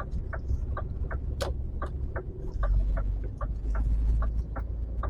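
Truck cab turn-signal indicator ticking steadily, about three clicks a second, over the low rumble of the lorry's engine.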